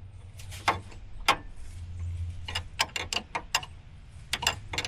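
Irregular sharp metal clicks, in small clusters, from a hand tool turning a bolt into a truck's steering gear, where the thread is binding. A faint steady low hum underneath.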